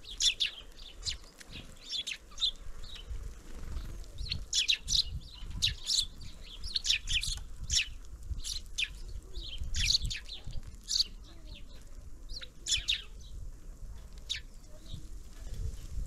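Small birds at a winter feeder calling: many short, high chirps in quick clusters, thinning out near the end.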